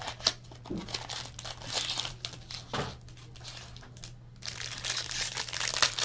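Trading-card pack wrappers crinkling and tearing as packs are opened and handled, in irregular bursts with a sharp click about a quarter second in, over a faint steady low hum.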